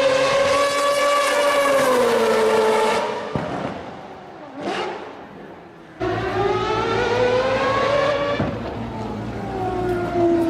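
Race car engine at high revs on track: it holds a high note, sags, and fades away; a car flashes past briefly; then the engine cuts back in loud, climbs in pitch under acceleration, lifts off and winds down again.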